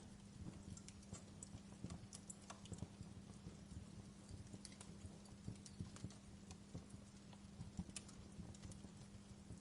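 Wood fire in a fireplace crackling softly, with irregular small pops and snaps over a steady low hum.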